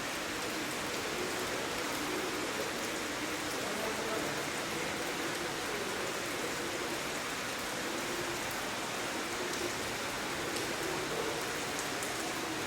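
Steady rain falling and splashing inside a large limestone cave, an even hiss with a few sharper drops now and then.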